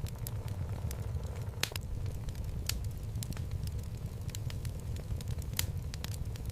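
Wood fire burning in a fireplace: a steady low rumble of flame with irregular sharp crackles and pops from the burning logs, the loudest pops about a second and a half in and near the end.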